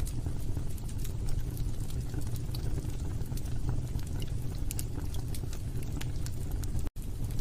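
Wood fire burning in a fireplace: a steady low rumble of flames with scattered sharp crackles and pops from the logs. The sound cuts out for an instant about seven seconds in.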